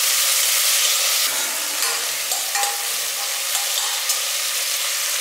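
Sliced onions, curry leaves and whole spices frying in oil in a pan, with a steady sizzle and stirring. The sizzle eases slightly a little over a second in.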